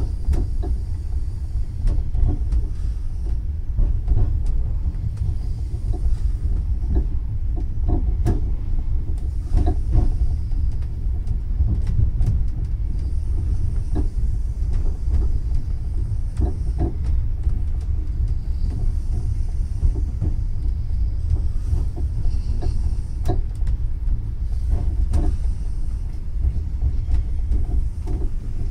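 Passenger train running on the rails: a steady low rumble with irregular clicks of the wheels passing over rail joints every second or two.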